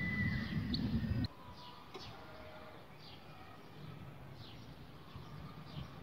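A loud low rumble that cuts off abruptly about a second in, followed by sparse, faint small-bird chirps, each a short falling note.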